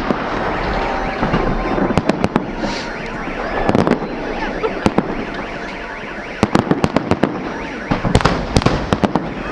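Fireworks salute going off: sharp bangs and crackling runs in quick clusters, around two seconds in, again from about six and a half to seven and a half seconds, and near the end, over a steady background din.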